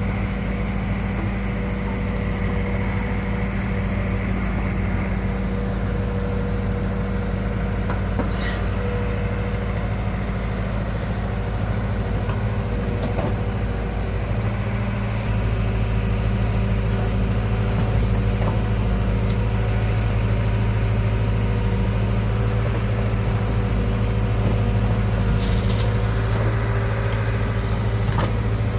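Heavy diesel engine running steadily at a low note. About halfway through it gets a little louder and heavier, as if taking on more load or revs.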